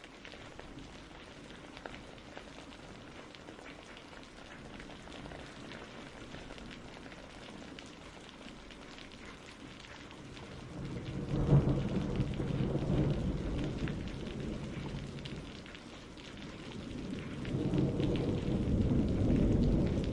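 Steady rain with two rolls of thunder rumbling over it, one starting about halfway through and another near the end.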